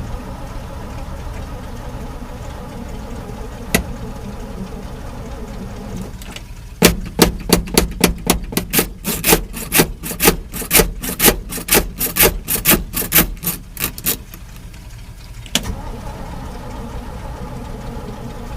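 1968 Chevy C60 truck's 283 V8 being cranked by its starter for about seven seconds, turning over in a steady rhythmic chug of about three to four beats a second without firing: a hard cold start that will not catch. Before and after the cranking an engine idles steadily, and a click sounds just after the cranking stops.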